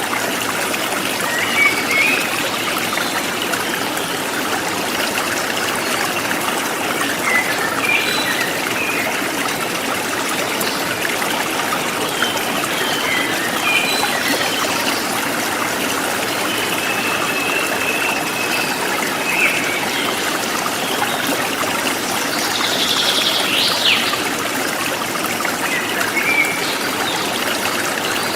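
A forest stream flowing steadily, with small birds chirping now and then over it and one louder burst of bird call about two-thirds of the way through.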